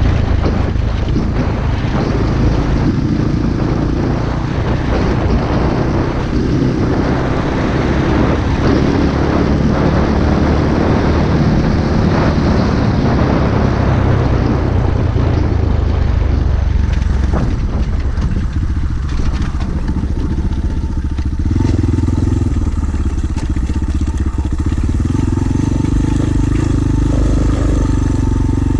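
Pit bike engine running under way, loud and continuous; its note changes about two-thirds of the way through, then holds steadier.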